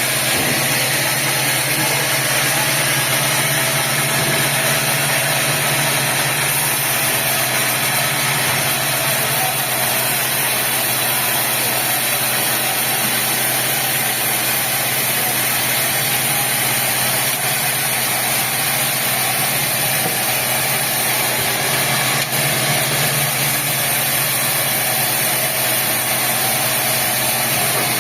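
Sawmill machinery running steadily: a constant mechanical drone with a steady low hum and a broad hiss above it.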